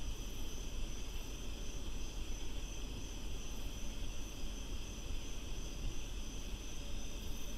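Steady, high-pitched chorus of night insects such as crickets, over a constant low rumble.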